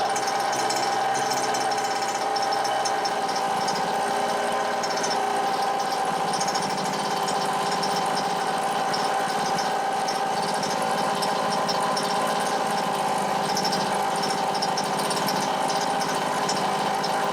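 Chung Yang 29cc two-stroke engine of a Losi 5ive-T 1/5-scale RC truck running steadily, set rich for its break-in heat cycle.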